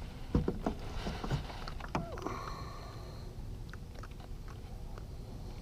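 A few light knocks and handling bumps on a kayak in the first couple of seconds, with a brief squeak or two, then only a faint steady low background.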